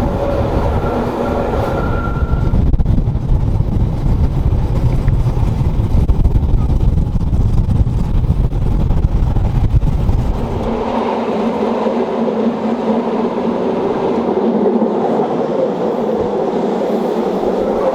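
Rhaetian Railway train on the Bernina line running, a heavy low rumble that drops away abruptly about eleven seconds in, leaving a lighter running noise with a steady hum.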